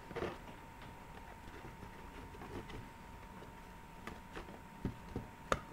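Handling of a plastic toy set and its packaging: scattered small clicks and taps, with a few sharper knocks near the end.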